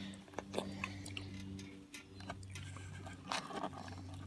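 A dog taking a piece of fried chicken: faint, scattered clicks, a handful in all, over a steady low hum.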